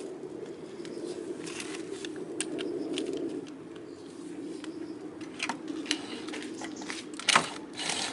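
Scattered light clicks and metallic taps of tools and parts being handled during scooter brake-pad work, with one sharper knock near the end, over a steady low hum.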